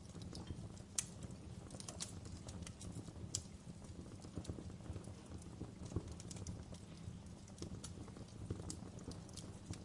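Wood fire burning in a fireplace: a soft low rumble of flames with irregular sharp crackles and pops, the loudest about a second in and again near two and six seconds.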